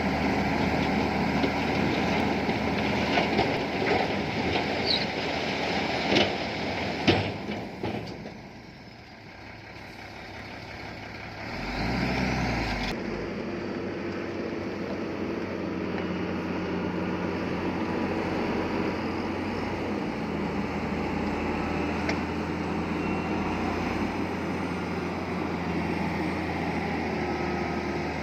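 Heavy diesel earthmoving machinery at work, with several sharp knocks and clanks in the first seven seconds. The sound drops away about eight seconds in, then an engine comes back up about twelve seconds in and runs steadily.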